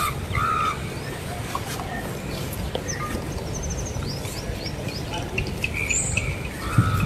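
Birds calling outdoors: two short calls at the start, a quick run of thin high chirps about halfway, and a brief high call near the end, over a steady low rumble.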